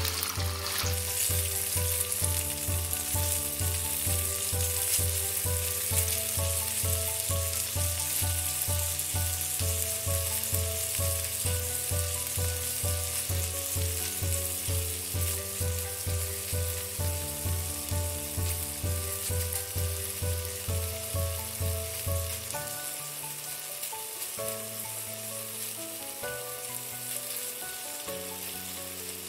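Chicken pieces sizzling as they fry in hot oil in a nonstick pan, with a silicone spatula now and then stirring and turning them. Background music with a steady pulsing bass beat plays over it; the beat drops away about three-quarters of the way through.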